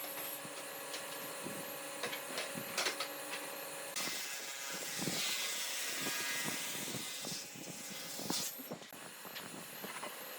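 Workshop sounds: scattered taps and knocks, with a steady hissing rush starting about four seconds in and stopping suddenly about four seconds later.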